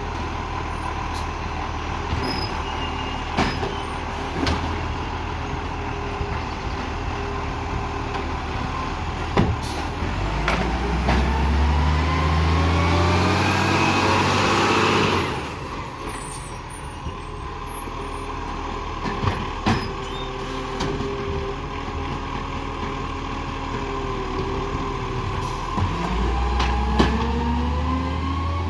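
Garbage truck's diesel engine idling, then revving up steadily for about five seconds and dropping back suddenly to idle. It rises again near the end, with short sharp clicks and hisses from the truck in between.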